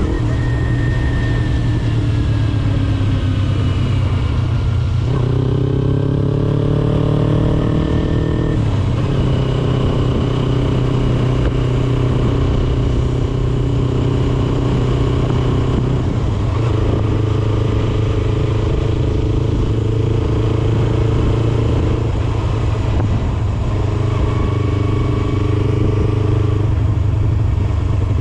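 2009 Kawasaki Ninja 250R's parallel-twin engine through an HMF slip-on exhaust, being ridden. The engine note climbs in pitch about five seconds in, settles, and changes level several more times with throttle and gear changes.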